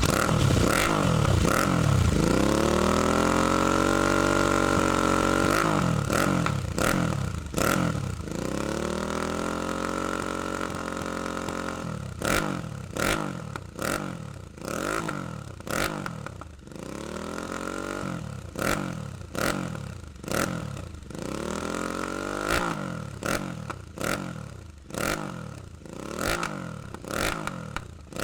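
Royal Enfield 650 parallel-twin engine breathing through a BS aftermarket exhaust, revved in place: two long held revs, then a quick run of short throttle blips, with sharp cracks between the revs.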